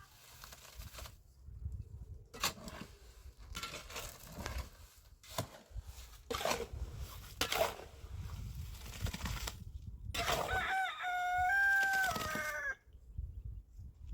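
A rooster crowing once, a long call about ten seconds in, after scattered knocks and rustling.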